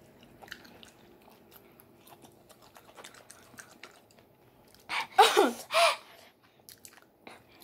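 Close-up wet chewing of jalapeño slices, a steady patter of faint small clicks. About five seconds in, two short loud cries falling in pitch break in as the heat of the peppers hits.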